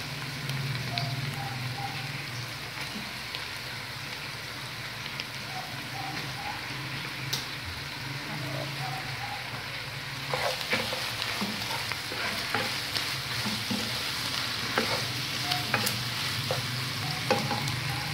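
Ground pork and sliced hot dogs sizzling in a nonstick frying pan. From about ten seconds in, they are stirred, with frequent clicks and knocks of the utensil against the pan over the sizzle.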